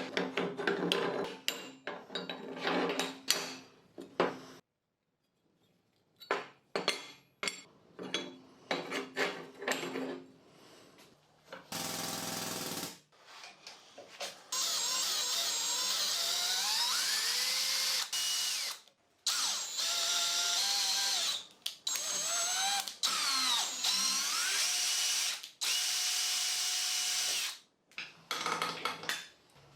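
Workshop tool sounds: a run of metal clanks and knocks, then a power drill running in long stretches with a shifting high squeal, stopping and starting several times.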